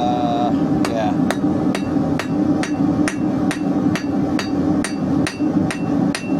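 Blacksmith's hammer striking a hot 16mm square steel bar on an anvil, about thirteen even blows at a little over two a second, each with a short metallic ring, over a steady low drone.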